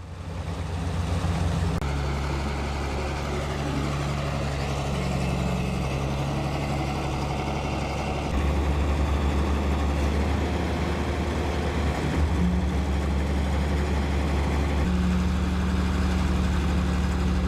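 Heavy diesel engines of a bulldozer and a logging truck running steadily as the bulldozer tows the truck out of mud. The engine note shifts abruptly several times.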